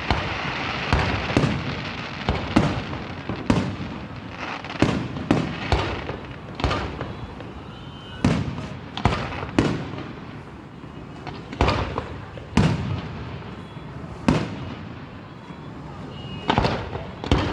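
Aerial firework shells bursting one after another, sharp booms irregularly spaced through the whole stretch, each followed by a rumbling echo, with a steady crackle beneath.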